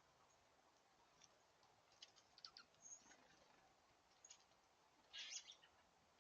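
Faint scattered clicks and scratching from small birds feeding, with a couple of short high chip calls, and a louder flurry of scrabbling about five seconds in.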